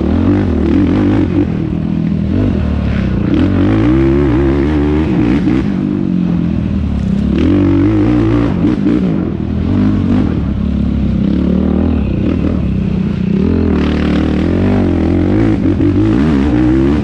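Yamaha YFZ450R quad's single-cylinder four-stroke engine under hard riding, its revs repeatedly climbing and dropping back as the throttle is worked, with scattered knocks and clatter.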